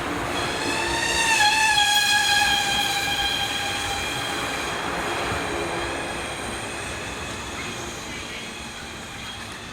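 JR 583-series electric train arriving at a platform, with running noise that slowly fades. For about the first four seconds a long high tone sounds over it, dipping slightly in pitch about a second and a half in.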